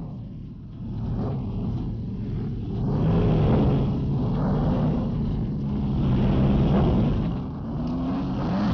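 Sport motorcycle engines running and revving, their pitch rising and falling.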